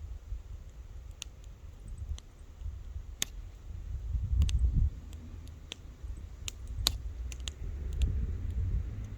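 Wood campfire crackling: irregular sharp pops and snaps, about a dozen, over a steady low rumble.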